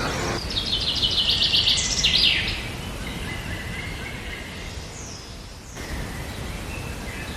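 Bird singing: a fast trill of high, evenly repeated notes for about two seconds near the start, then a few fainter chirps over steady outdoor background noise.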